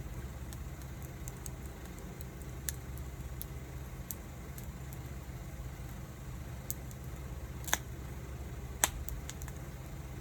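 Wood fire crackling, with scattered small snaps and two loud pops about a second apart, over a steady low rumble.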